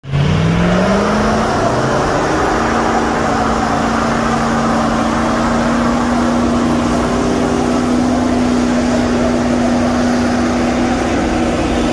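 Vehicle engine revving up over about a second and a half, then held steadily at high revs, over a loud rushing noise.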